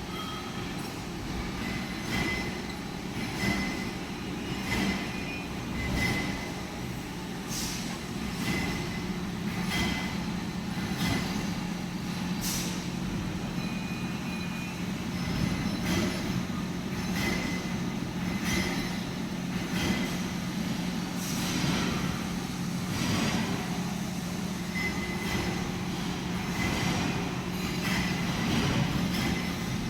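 Electric drill running with a steady motor hum while the bit bores into clamped metal, giving short squealing, scraping strokes every second or two.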